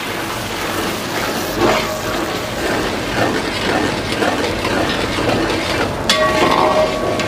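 Onion paste frying in hot ghee in a metal pan, sizzling steadily while a steel spatula stirs and scrapes through it. About six seconds in, the spatula knocks against the pan with a short metallic ring.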